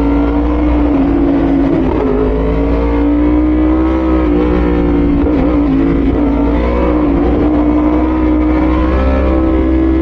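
Yamaha R1's inline-four engine running at a steady cruise, its note wavering slightly with small throttle changes, over a steady low wind rumble.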